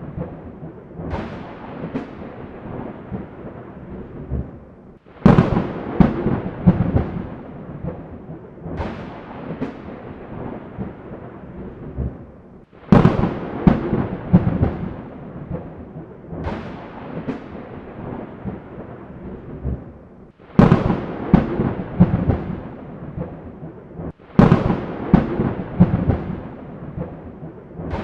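Thunderstorm: four sudden thunderclaps, each cracking sharply and rumbling away over a few seconds, over the steady hiss of rain.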